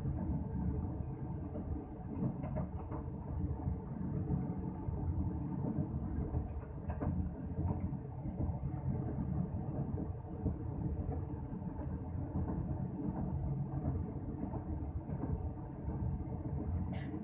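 Passenger train running at speed, a steady low rumble of wheels on rails heard from inside the coach, with a few faint knocks.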